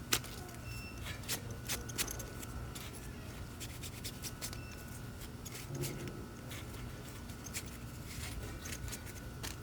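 Scattered light clicks and taps of small parts being handled as a fuel pump strainer (sending unit filter) is fitted onto the fuel pump.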